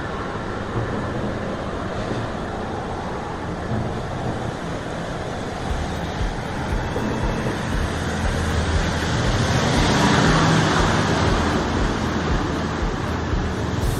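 Road traffic going by on a highway, one vehicle passing close and loudest about ten seconds in, with wind rumbling on the microphone.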